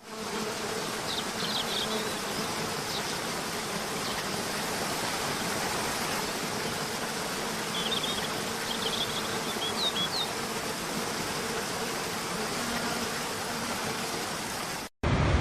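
Steady buzzing of flying insects over an even hiss, with a few short high chirps about a second in and again around eight to ten seconds in. It cuts off suddenly near the end, and a louder rushing sound takes over.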